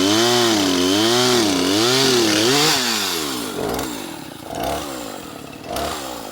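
Chainsaw engine at full throttle, its revs surging up and down about one and a half times a second, then dropping off about three seconds in. The saw runs unevenly at full throttle; the operator is unsure why and wonders whether the cool morning air is to blame.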